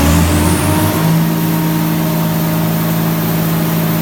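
John Deere 7930 tractor's straight-piped six-cylinder diesel engine revving up in the first second, then holding a steady higher speed. A high whistle rises with it and then holds.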